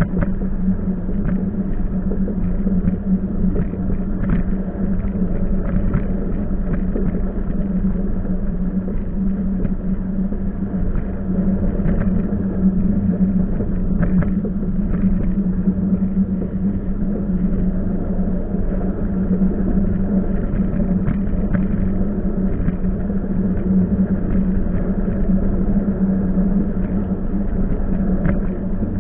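Train running steadily: a continuous rumble with a strong low hum and scattered faint clicks.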